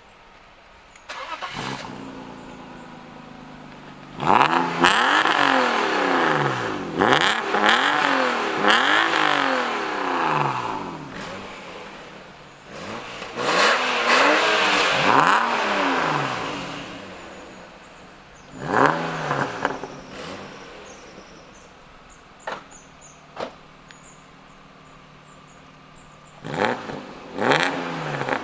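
BMW Z3 2.8's straight-six revved again and again through a modified Eisenmann exhaust, an aftermarket rear silencer fed by a custom pipe from the catalytic converter to make it louder. It idles between revs: a quick blip early on, a long run of rapid revs, then another run, then a few short single blips, the last two close together near the end.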